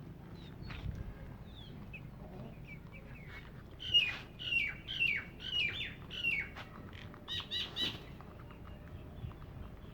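Birds calling: scattered small chirps, then from about four seconds in a run of about five loud calls, each sliding down in pitch, about half a second apart, followed by three quick calls.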